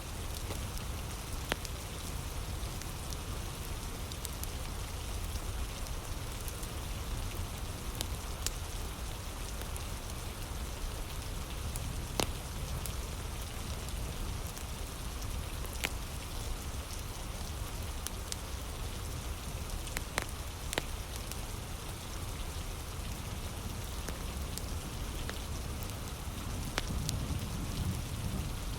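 Heavy rain falling steadily, with scattered sharp pops and crackles from a wood fire.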